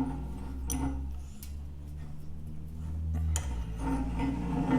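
A few light metallic clicks and taps as sheet steel with a dimple die clamped to it is handled and fed into a vise, over a steady low hum.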